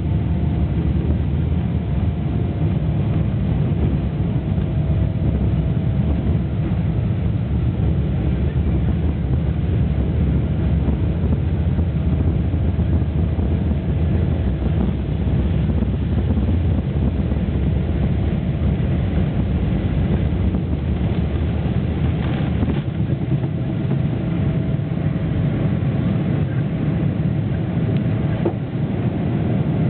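Boeing 777-300ER cabin noise: the GE90 jet engines and airflow as a steady, loud low rumble, with faint steady tones above it.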